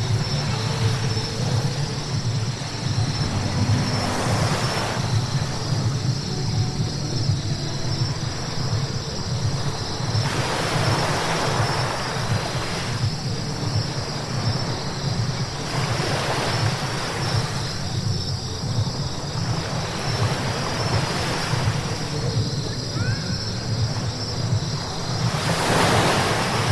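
Car driving on a wet road: a steady low road rumble with a spray-like hiss of tyres on wet asphalt that swells and fades every few seconds.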